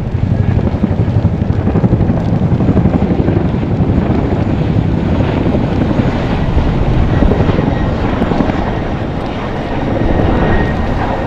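Helicopter flying nearby: a loud, steady, fluctuating rotor and engine rumble.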